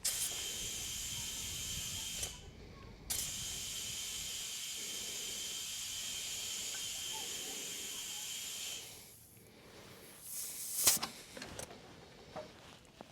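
Compressed air hissing from an air chuck inflating a Zoomlion tractor tyre, with a faint steady whistle. It comes in two long bursts, about two seconds and then about six, followed by a short sharp burst.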